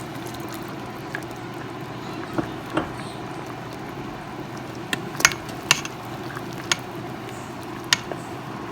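Pot of chicken rice porridge simmering, a steady bubbling hiss, while a spoon stirs it and clinks sharply against the pot several times, most often around the middle.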